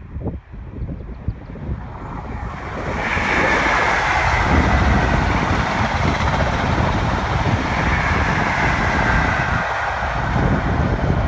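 A diesel High Speed Train (InterCity 125) passing: a rush of engine, wheel and air noise that builds about two and a half seconds in and stays loud as the power car and coaches go by, with wind on the microphone.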